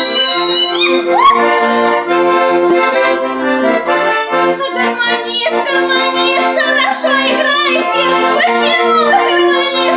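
Accordion playing a folk song, held chords under the melody, with a voice singing over it.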